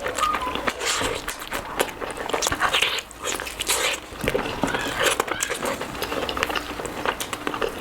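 Close-miked eating sounds: chewing and lip-smacking, a steady run of short wet clicks and crackles.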